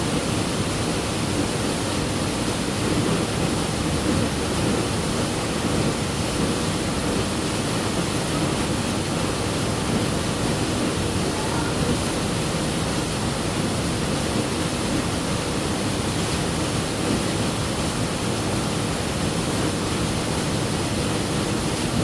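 Steady rushing of water, an even noise that holds at one level throughout.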